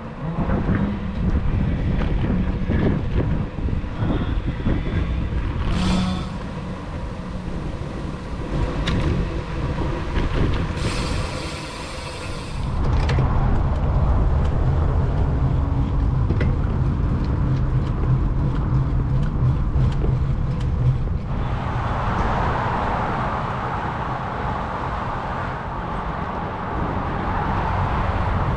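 Road and motor-traffic noise recorded on the move, with low rumbling throughout. A steadier low hum sets in about halfway through, and a brighter hiss takes over for the last part.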